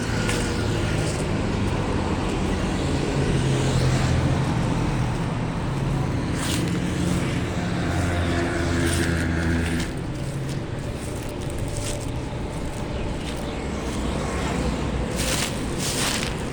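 Dry leaves crackling in a few sharp bursts, over the steady hum of a nearby vehicle engine that fades about ten seconds in.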